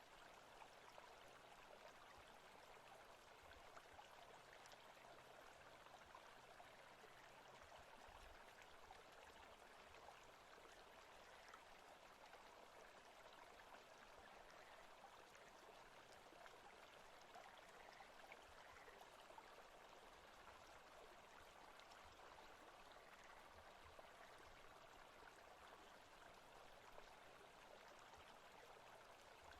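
Faint, steady forest ambience of a running stream.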